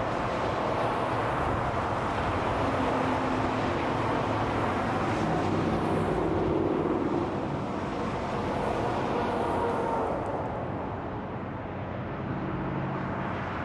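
Steady freeway traffic: a continuous rush of tyres and engines from vehicles passing on an interstate, with one vehicle's engine hum swelling in the middle and the noise easing slightly near the end.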